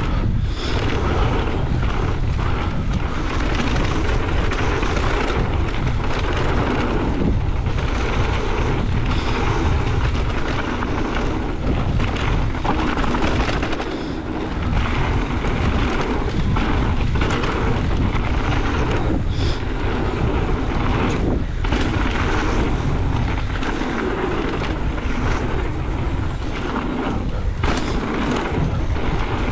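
Wind buffeting the microphone and tyre noise from an e-mountain bike ridden fast down a trail, a continuous loud rush with scattered brief knocks and rattles as it goes over bumps.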